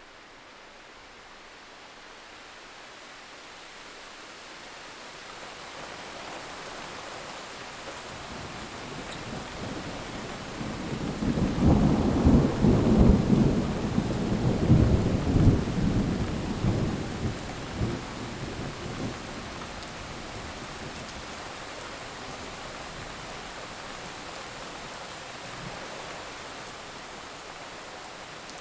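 Steady rain that grows louder over the first several seconds, then a long rolling peal of thunder about eleven seconds in that rumbles and crackles for around six seconds before dying back into the rain.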